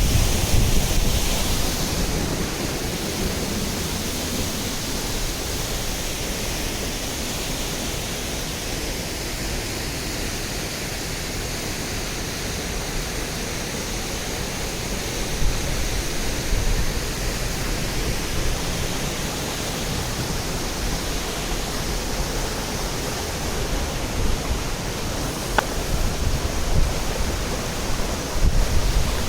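Waterfall, water falling in a steady, dense rush. Wind buffets the microphone at the start and again near the end.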